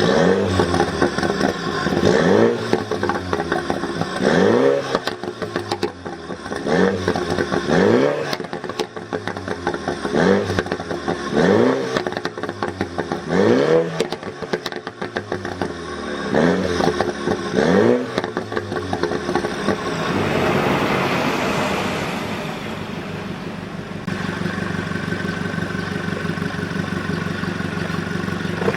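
Third-generation Mini John Cooper Works with a tuned aftermarket exhaust, its four-cylinder turbo engine blipped again and again, about one rev every two seconds. Sharp pops and crackles come from the exhaust as the revs drop, the tuned "popcorn" overrun effect. Near the end it swells once more and then settles to a steady idle.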